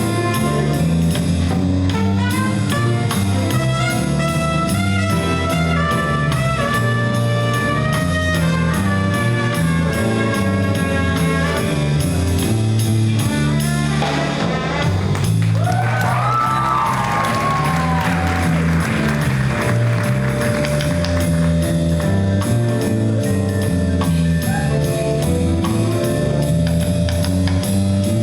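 Big-band jazz ensemble playing: brass and saxophones over a walking bass line and drum kit. About halfway through, a brief swooping high line sounds over a noisy wash.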